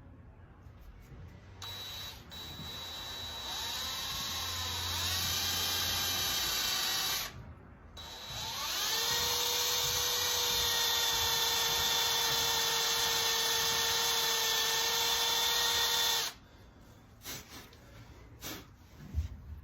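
Cordless drill boring a small pilot hole into a snapped steel frame-to-engine bolt for a screw extractor. Its motor whine comes in two runs: the first wavers in pitch under load for about five seconds, and the second spins up, then holds steady for about eight seconds before cutting off. A few light clicks follow near the end.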